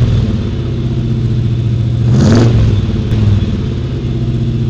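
Car engine idling loudly, with a short rev about two seconds in.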